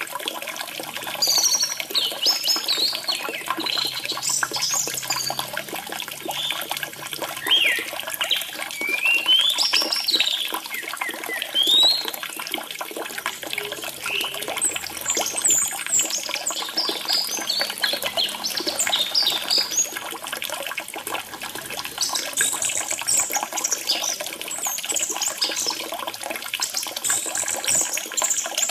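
Orange-headed thrush singing short, varied whistled phrases over steadily trickling water.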